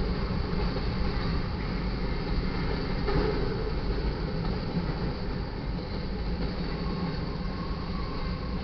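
Freight cars of a passing manifest train rolling by: a steady, loud rumble of steel wheels on the rails.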